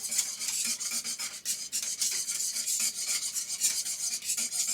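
Rapid scraping strokes of a utensil stirring a thickening milk-and-stock Alfredo sauce in a pot, at about six to eight strokes a second.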